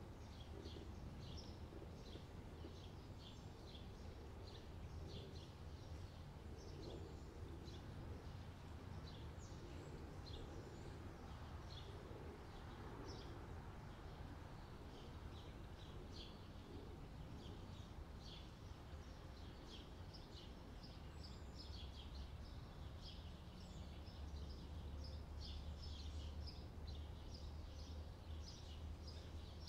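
Small birds chirping busily in the background, over a low steady hum.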